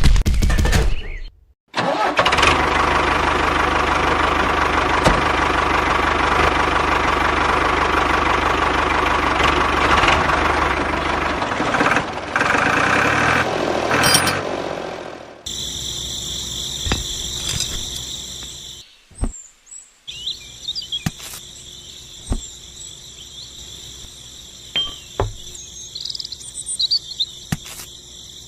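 A small motor on a handmade miniature machine runs loudly and steadily for about thirteen seconds, then dies away. After an abrupt change, crickets chirp steadily with a few scattered clicks.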